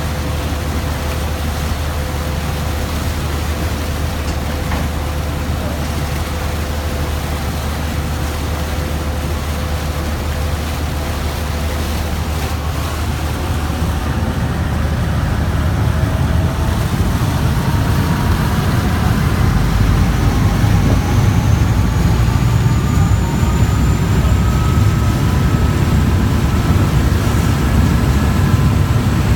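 River boat engine running with a steady low drone, growing louder about halfway through as a whine rises slowly in pitch.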